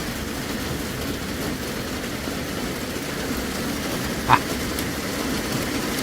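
Hailstones pelting a boat during a major hailstorm, heard from inside as a steady, dense rattle, one hell of a racket. A short high squeak cuts through a little after four seconds in.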